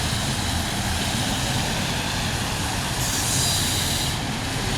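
Steady road traffic noise with a low rumble, and a brief hiss of a passing vehicle about three seconds in.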